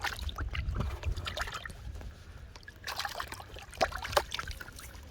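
Water splashing and trickling in short, irregular spurts, with two sharper splashes about four seconds in.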